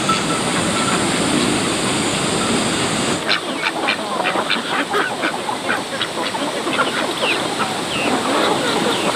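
Farmyard poultry calling, mostly duck quacks, over a steady hiss. The calls grow dense from about three seconds in.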